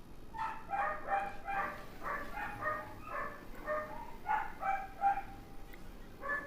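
A run of short, high-pitched animal calls, about three a second, starting about half a second in and stopping about five seconds in, with one more call near the end.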